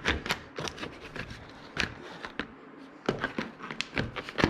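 Hands working on a car seat: irregular sharp clicks, taps and rustles as the seat fabric and plastic trim cover are handled.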